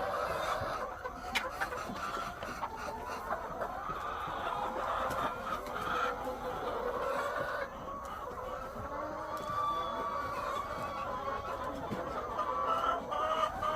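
A large flock of egg-laying hens clucking, many calls overlapping into a continuous chatter.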